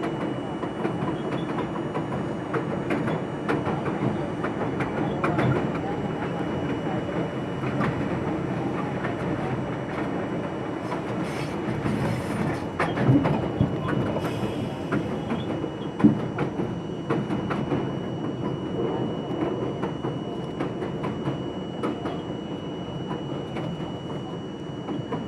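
R42 subway train running, its wheels clacking over rail joints over a steady rumble. A brief faint wheel squeal comes near the middle, and there are two sharper knocks a few seconds apart past the middle.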